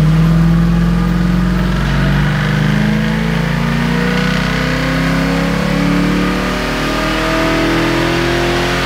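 Carburetted LS1 V8 in a Holden HG sedan running on a chassis dyno, its revs climbing steadily under load through a pull.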